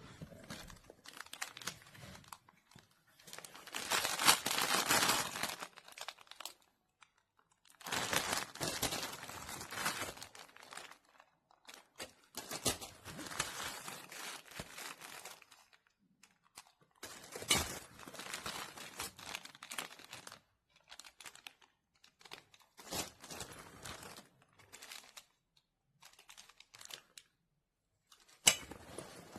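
Crinkling and rustling from something being handled, in irregular bursts of a few seconds with short gaps between them, loudest about four seconds in.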